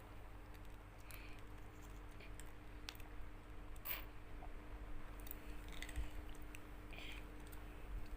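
Eating at close range: scattered small clicks and brief crackles from chewing and handling food, over a faint steady hum.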